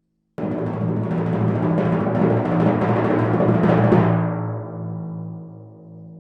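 Timpani roll: it starts suddenly, builds slightly for about three and a half seconds, then stops and leaves the drum's low pitch ringing and dying away.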